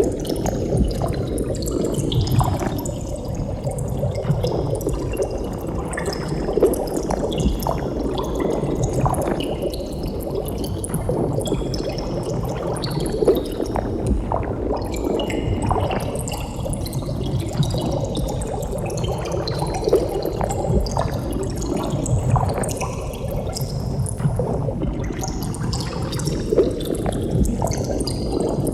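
Continuous underwater bubbling, many small bubbles gurgling and popping in a dense, steady stream, with a slow sweeping, phasing colour to the sound.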